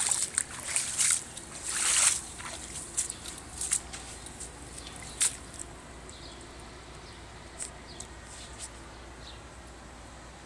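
Storm runoff trickling and splashing, with irregular sharp splashes that come thick for the first few seconds and then thin out to an occasional one.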